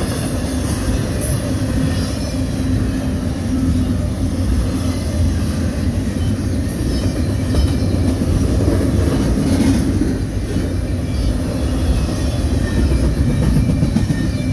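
CSX double-stack container train's freight cars rolling past at close range: a steady rumble and clatter of steel wheels on the rails.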